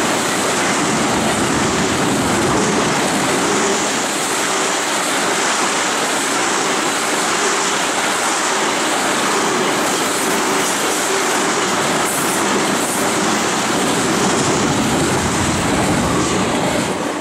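Loaded oil tank cars of a freight train rolling past close by at speed: a loud, steady rush of steel wheels on rail with clickety-clack over the rail joints, fading off near the end as the last car passes.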